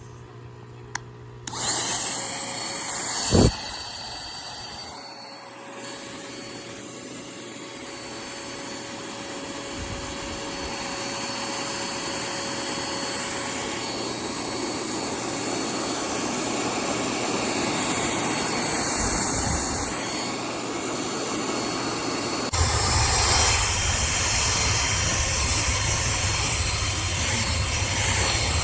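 Cordless handheld mini vacuum cleaner running with a steady whine after a click, starting about a second and a half in, with a sharp knock a couple of seconds later. About 22 seconds in it suddenly gets louder and rougher.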